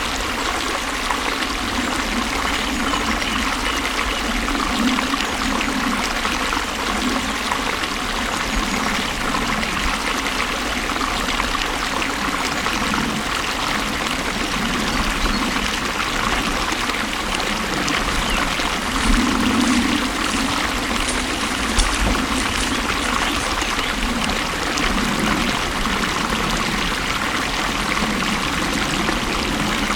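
Flowing water running steadily, with low gurgling and a slightly louder surge about two-thirds of the way through.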